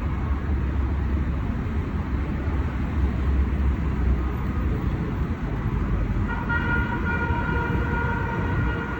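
Heavy road traffic rumbling steadily. About six seconds in, a long, steady multi-tone horn starts and keeps sounding.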